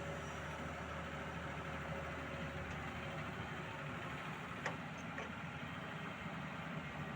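Heavy engine running steadily at low revs, with a single sharp metallic click about two-thirds of the way through.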